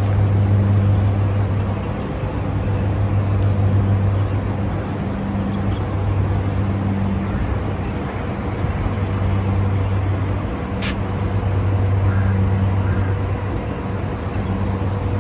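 A steady low mechanical hum that swells and fades, over a constant outdoor background noise, with a single sharp tick near the end.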